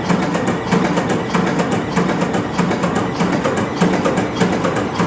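MAN B&W 5S35ME five-cylinder, two-stroke, low-speed marine diesel engine running at low speed, with a loud, steady, rhythmic mechanical clatter of even beats.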